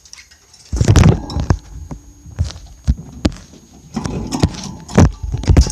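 Irregular knocks, clicks and rustling, in two loud clusters: one about a second in and one from about four seconds in.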